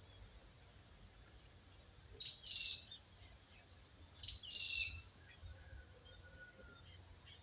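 A songbird singing two short, bright, repeated phrases about two seconds apart, followed by a faint thin whistle, over a steady low rumble of outdoor background noise.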